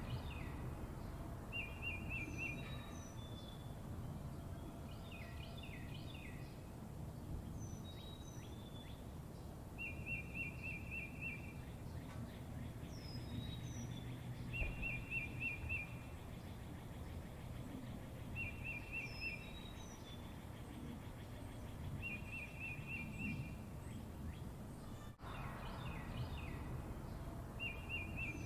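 Birds calling outdoors: a short rapid trill repeated every few seconds, with brief high down-slurred chirps in between, over a steady low rumble of background noise.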